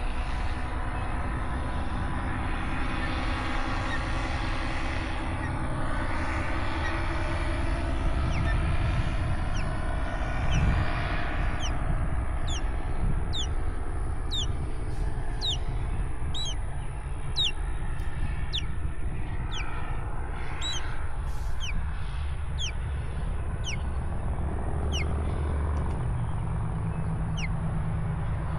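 A small bird repeating short, sharp falling chirps, one or two a second, from about halfway in, over a steady low rumble and a distant engine hum that is clearest in the first half.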